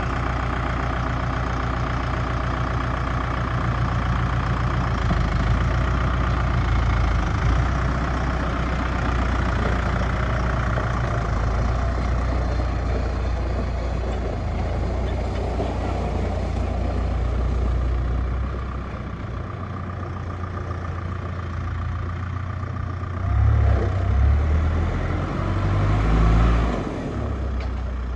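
Four-cylinder turbo diesel engine of a Deutz-Fahr K120 tractor running steadily at idle. Near the end it is revved up briefly twice.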